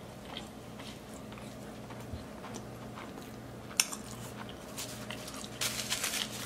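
A person chewing a mouthful of burger, with small wet mouth clicks and one sharper click about halfway through. Near the end comes a short burst of rubbing noise as a paper napkin wipes the mouth, over a faint steady hum.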